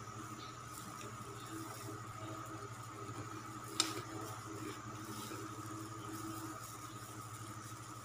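Soft chewing and mouth sounds of a person eating, over a steady low hum, with one sharp click about four seconds in.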